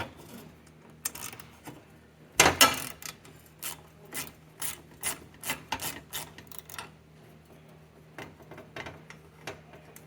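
Socket wrench with a 1/2-inch socket working the brass burner jets loose on a gas forge: a loud knock as the tool goes on, then a run of raspy ratcheting strokes about two a second, with fainter metal clicks near the end.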